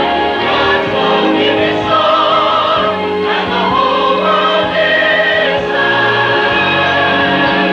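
Church chancel choir singing in several parts, holding long notes with a slight vibrato.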